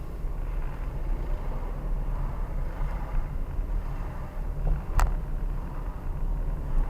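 A car running with a steady low rumble, and a single sharp click about five seconds in.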